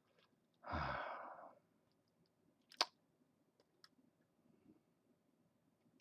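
A man breathes out audibly in a short sigh about a second in. A single sharp click follows near the middle, with a few faint ticks after it.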